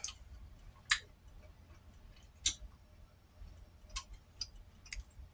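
A few short, separate clicks at irregular intervals, about five in all, over quiet room tone.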